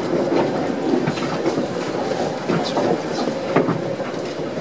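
Commuter train car rolling slowly, heard from inside the car: a steady rumble with a few irregular knocks from the wheels and car.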